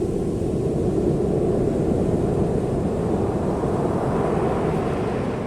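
Ocean surf washing onto a beach: a steady rushing noise that grows hissier about four seconds in.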